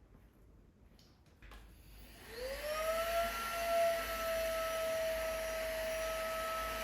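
A PLUSMINUSZERO XJC-C030 cordless stick vacuum cleaner switching on after a couple of clicks: its motor spins up with a rising whine about two seconds in, then runs at a steady high whine over a rush of air.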